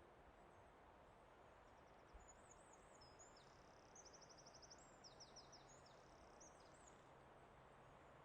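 Faint forest ambience: a soft steady hiss with a small songbird singing a high-pitched phrase of quick chirps, down-slurred notes and a fast trill in the middle, ending about seven seconds in.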